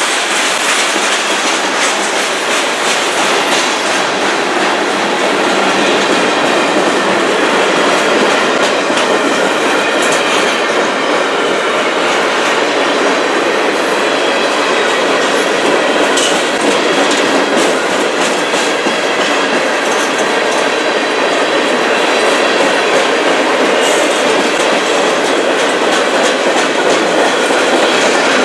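Freight cars of a manifest train rolling past close by, covered hoppers and then coil steel cars: a steady rumble of steel wheels on rail, with quick clicking as the wheels cross the rail joints.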